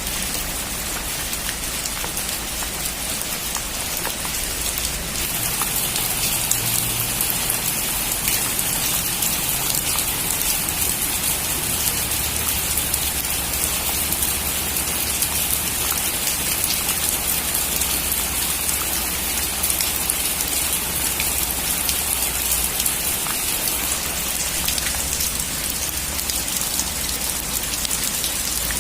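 Heavy rain falling steadily on a metal roof, a dense patter of drops that grows a little heavier about five seconds in.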